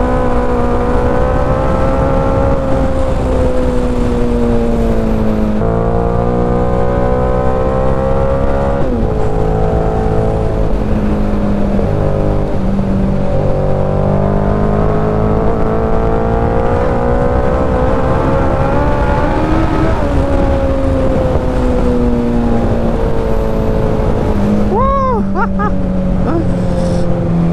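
Suzuki Hayabusa's inline-four engine under way. Its note climbs slowly with speed and drops suddenly at each upshift, about 6, 9 and 20 seconds in. A short wavering tone sounds about 25 seconds in.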